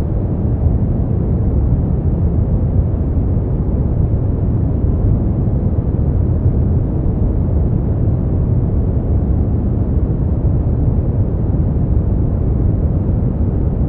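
Brown noise: a steady, deep rushing hiss, heaviest in the low end and dull in the treble, unchanging throughout.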